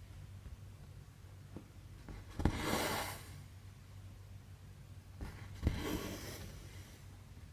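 Needle and thread pulled through 11-count cross-stitch fabric: two airy swishes of thread drawn through, each starting with a small pop of the needle, about two and a half and five and a half seconds in.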